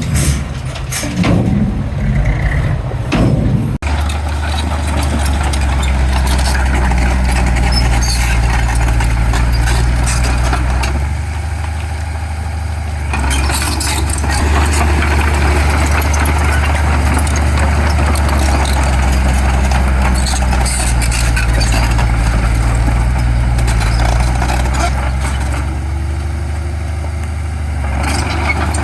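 Heavy diesel earthmoving machinery running steadily, a deep engine drone with rattling and clanking over it. The sound changes abruptly about four seconds in.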